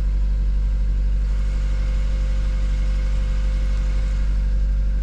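Car engine idling steadily, running shortly after a cold start in freezing weather.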